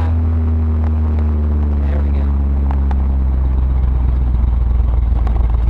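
1977 Ford Ranchero's 351 Windsor V8 running with a loud, low drone. Its revs fall slowly over the first three or four seconds, then hold steady.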